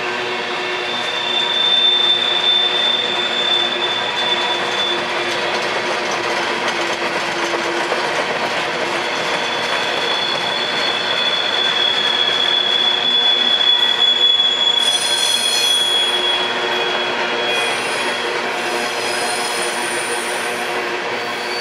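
Freight train cars rolling past, their steel wheels squealing on the rails in long, high, drawn-out tones that come and go.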